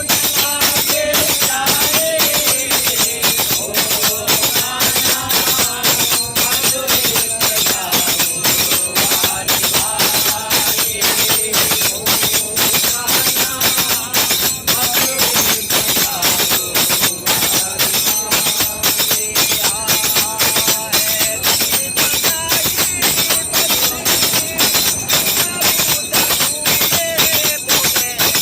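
Commuters singing together to a fast, steady beat of tambourine and jingling hand percussion, about four strokes a second.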